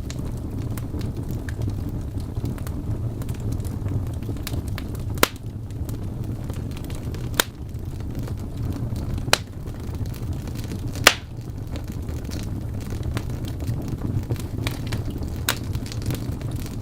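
Wood fire burning in a fireplace: a steady low rumble with light crackling and several sharp pops, the loudest about two-thirds of the way through.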